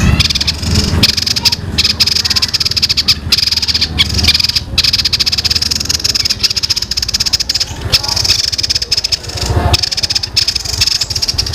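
Songbird singing a fast, continuous rattling trill of the 'tembakan' (rapid-fire) kind used as masteran tutor song, broken by a few short pauses.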